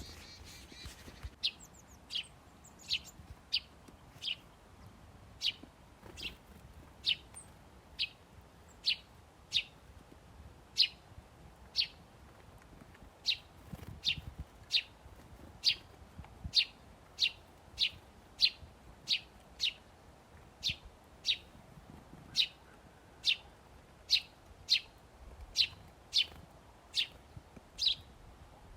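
A small bird chirping over and over: short, high notes that each drop quickly in pitch, repeated steadily about once or twice a second.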